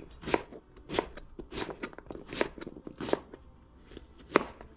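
Knife chopping young long squash (bottle gourd) on a cutting board: about six separate cuts, spaced a little under a second apart, the last one near the end the loudest.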